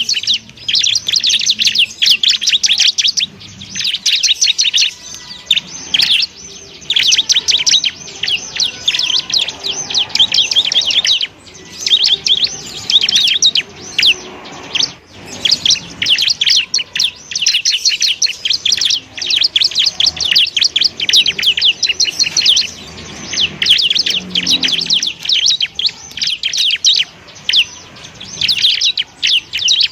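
Bar-winged prinia (ciblek) singing a rapid, high-pitched chattering trill, delivered in dense bursts of one to three seconds separated by brief pauses.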